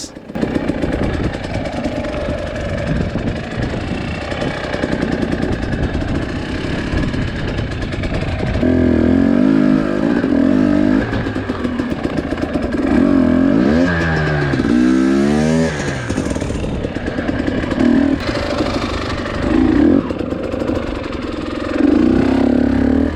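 Two-stroke dirt bike engine pulling at low speed over rough trail, with repeated short bursts of throttle. Midway through there is a run of quick revs rising and falling.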